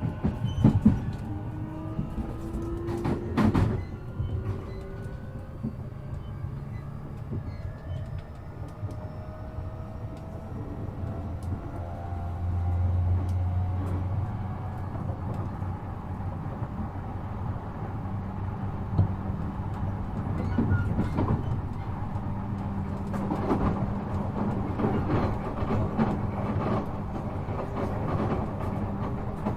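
Inside an E233 series 7000-subseries electric train on the move: the traction motors and inverter whine in several tones that shift in pitch, over a low rumble of the running gear, with wheels clicking over rail joints.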